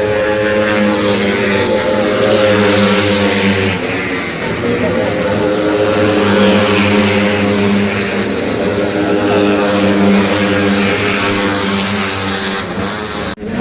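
Racing underbone motorcycle engines held at high revs, several running together with slight rises and falls in pitch. The sound cuts off sharply near the end.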